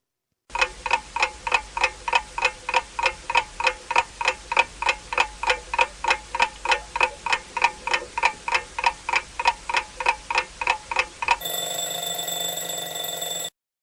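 Chicken clucking in a fast, even run of short clucks, about three to four a second, then a different steady sound with held tones for about two seconds near the end.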